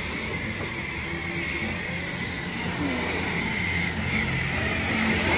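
Self-serve car wash high-pressure wand spraying water onto a truck: a steady hiss.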